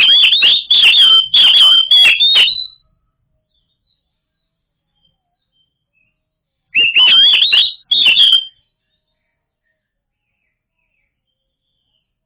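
Oriental magpie-robin (kacer) singing: two bursts of quick, varied whistled phrases, the first about three seconds long and the second about two seconds long, starting a few seconds later. The song stops completely between and after the bursts.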